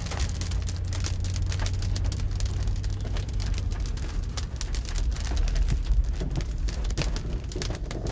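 Big raindrops hitting a car's windshield and roof as a dense run of sharp separate ticks, heard from inside the cabin with the windows rolled up, over the low rumble of the car on the road.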